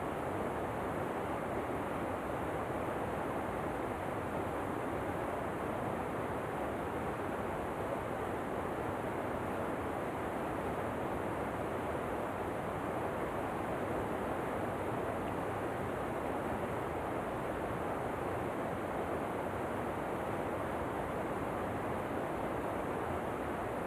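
Waterfall: steady rushing water, an even noise with no changes in level.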